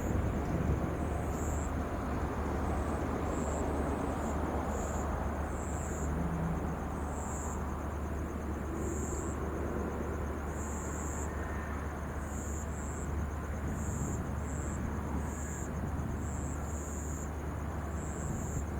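Jet airliner engine noise slowly fading as the aircraft moves away, with short high chirps repeating throughout.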